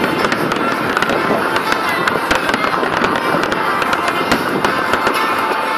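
Fireworks display going off in a dense barrage: many overlapping bangs and crackles with no pause, a few sharper bangs standing out.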